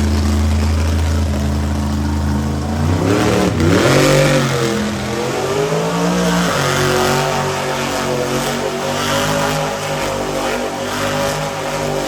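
Monster truck engine running steadily, then revving up and down several times about three to six seconds in, before settling back to a steady run.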